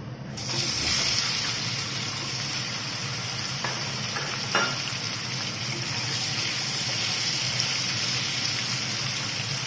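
Chunks of parboiled taro root (gathi kochu) sizzling in hot mustard oil with cumin seeds in a non-stick wok, the sizzle starting about half a second in as they drop into the oil and running on steadily while they are stirred with a spatula. A couple of light clicks of the spatula against the pan come near the middle.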